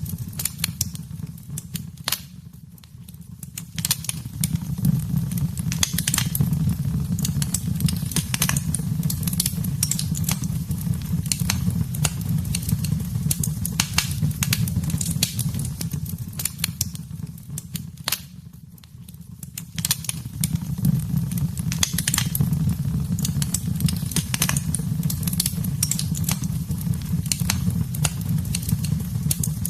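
Wood fire in a fireplace crackling and popping over a low, steady rumble of the flames. The crackling briefly thins and quietens about two seconds in and again a little past the middle.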